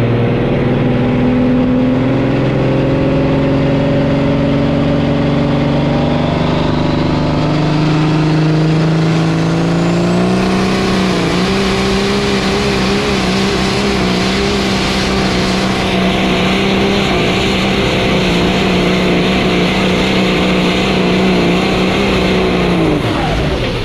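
Semi truck's diesel engine at full throttle pulling a weight sled: the engine note climbs in pitch over the first ten seconds with a couple of jumps, is held at high revs for about twelve seconds, then drops sharply near the end as the throttle comes off.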